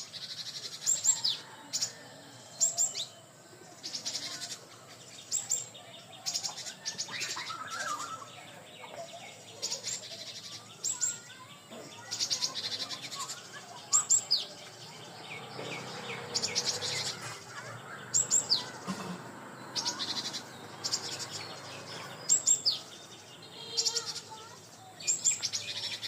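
Birds singing and chirping: short, high, downward-sweeping notes repeat every second or two over softer chatter and trills.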